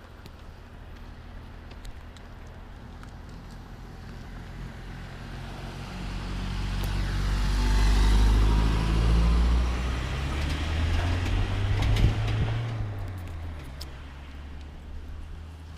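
A motor vehicle passing by, its engine and tyres growing louder, peaking about halfway through, and fading away as its pitch drops.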